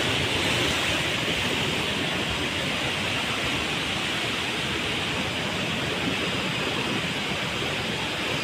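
Steady rushing of water from a forest stream and small waterfall.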